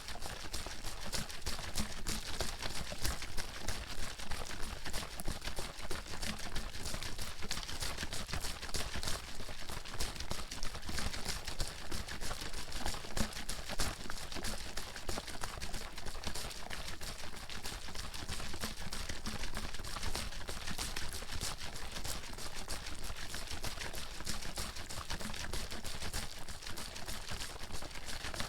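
Water sloshing and splashing inside a bottle that is being shaken quickly and without pause.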